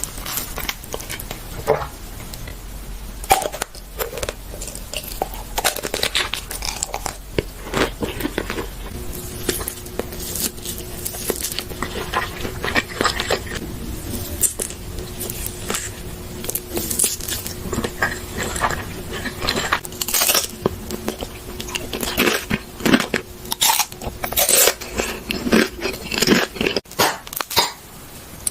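Close-miked ASMR eating: a run of bites, crunches and chewing, with many short crackly strokes.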